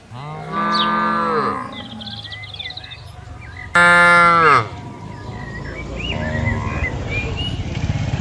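Cattle mooing: two long moos that fall in pitch, the first about a second in and a louder one about four seconds in, followed by lower, rougher lowing. Birds chirp faintly between the calls.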